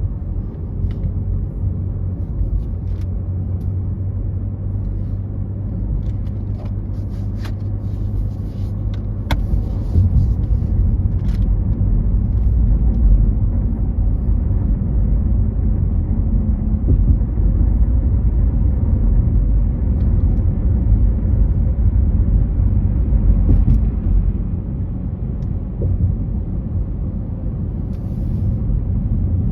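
Steady low rumble of road and engine noise from a car driving on the freeway, louder from about ten seconds in until about twenty-four seconds. A few faint ticks are heard between about seven and eleven seconds in.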